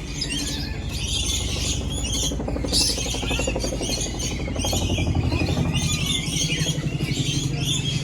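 Many birds chirping and calling at once, a dense continuous chatter, over a low steady hum that grows a little louder about halfway through.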